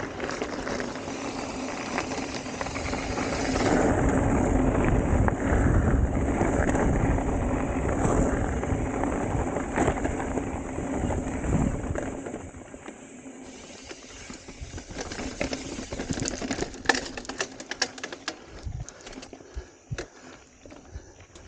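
Wind rushing over the camera microphone as a mountain bike speeds down a dirt trail, mixed with the bike rolling over the ground. The rush swells about four seconds in and dies down after about twelve seconds, leaving quieter clicks and rattles from the bike.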